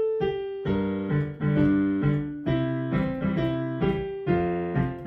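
Instrumental piano-like keyboard music, with chords and a melody and no singing. Notes are struck and fade, a few each second.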